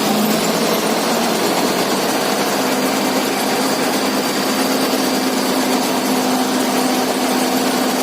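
Engine running at a steady speed, with an even hum that does not rise or fall.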